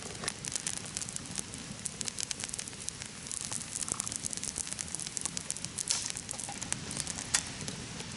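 Bonfire crackling, with many irregular sharp pops over a steady hiss.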